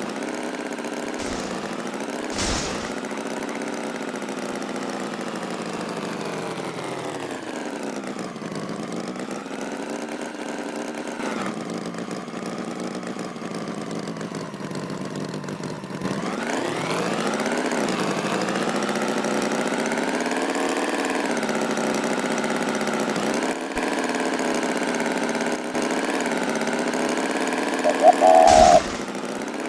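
Tractor engine sound effect running steadily, its pitch slowly rising and falling as it revs up and down; it gets louder about halfway through, and near the end a short, loud tone with a knock cuts in briefly.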